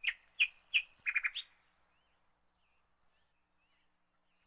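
A bird calling with sharp, high chirps, several in quick succession, followed by a few fainter chirps that die away.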